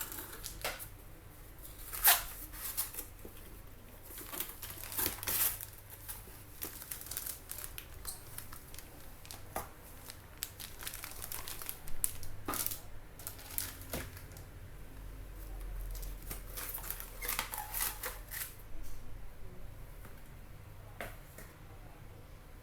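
Packaging being handled during an unboxing: irregular crinkling and rustling of plastic and paper wrapping, with scattered sharp clicks, the loudest about two seconds in.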